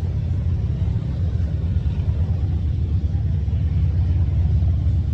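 Motorcycle engines running steadily, a deep, unbroken pulsing drone.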